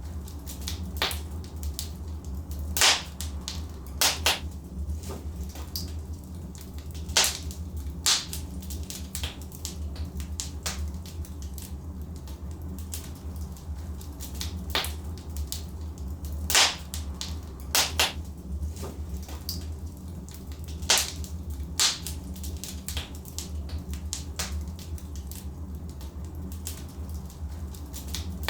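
Burning logs in a fireplace crackling, with irregular sharp pops, the loudest about three, four, seven, sixteen to eighteen and twenty-one seconds in, over a steady low rumble.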